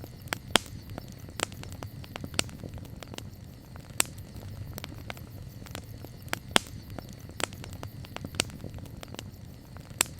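Wood campfire crackling: irregular sharp pops and snaps, a few of them much louder than the rest, over a low steady rumble.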